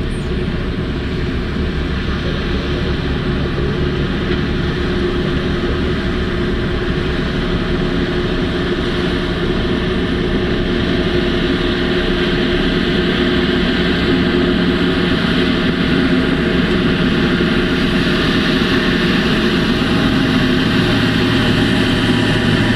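Large diesel engine of heavy mining machinery running steadily under load, a deep rumble with a steady whine over it, growing slightly louder.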